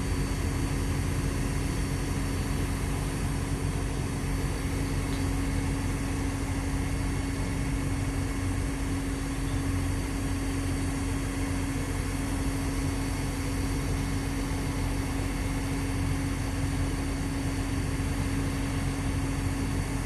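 Liugong CLG922E crawler excavator's Cummins diesel engine running steadily at a constant speed, with a steady low hum and no revving.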